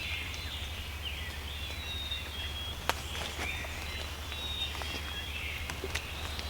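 Songbirds singing faintly in the distance, short whistled phrases repeating, over a steady low rumble. A few sharp clicks are scattered through it, one of them about three seconds in.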